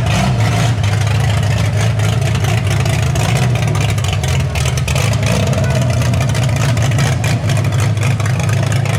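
Car engine with a loud exhaust running steadily with a deep note, holding its revs without rising or falling.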